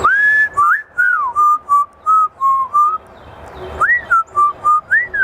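Parrot whistling a tune of short clear notes, opening with a long rising note, with two quick upswept notes about four and five seconds in.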